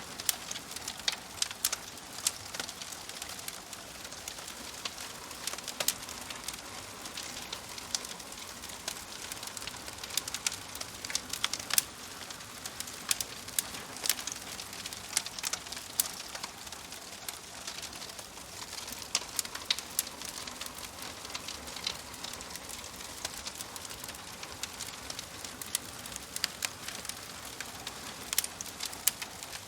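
Wood fire crackling: a steady soft hiss with many sharp, irregular pops and snaps.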